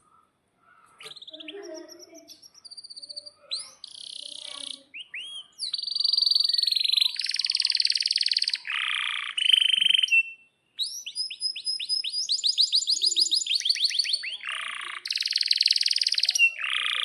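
Domestic canary singing a long song of chirps, whistled glides and fast rolled trills, growing louder and more continuous after the first few seconds.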